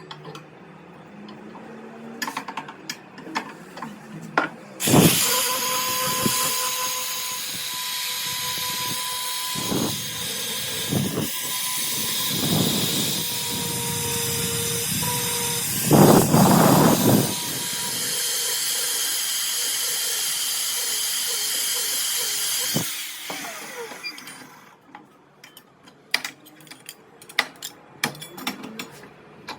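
An electric power tool runs with a steady hiss and a faint whine. It starts suddenly about five seconds in and stops around twenty-three seconds. Scattered clicks and knocks of handled metal and tools come before and after.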